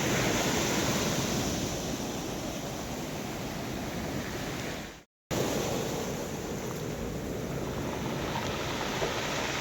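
Rough sea surf washing onto the shore, with wind buffeting the microphone. The sound cuts out completely for a split second about halfway through, then resumes.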